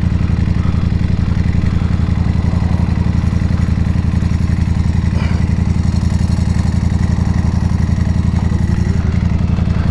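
Motorcycle engine idling steadily, with a fast, even beat that holds the same pitch throughout.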